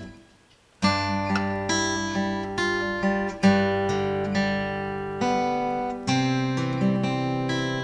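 Acoustic guitar fingerpicked in a waltz arpeggio: thumb bass notes with plucked higher strings between them, playing a four-bar intro. It starts after a short silence about a second in.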